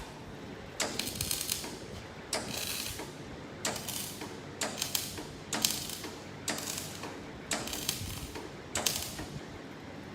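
Flux-cored MIG welder laying short tack welds: about eight brief bursts of arc crackle, each under a second, roughly one a second.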